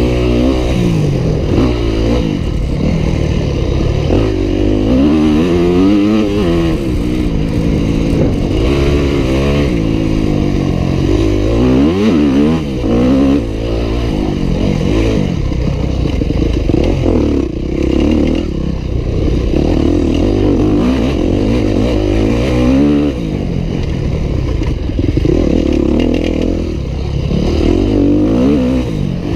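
Yamaha YZ250F four-stroke single-cylinder dirt bike engine under hard riding. It revs up and drops back again and again as the rider accelerates and shifts, with longer steady stretches of high revs in the second half.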